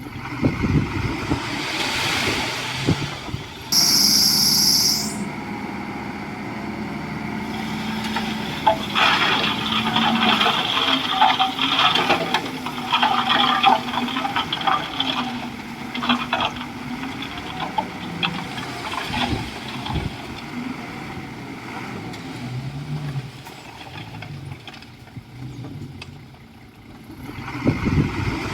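Komatsu D41E bulldozer's diesel engine running under varying load, its pitch rising and falling, with a stretch of dense crackling and scraping in the middle as the dozer pushes through trees and brush. A brief high-pitched sound cuts in about four seconds in.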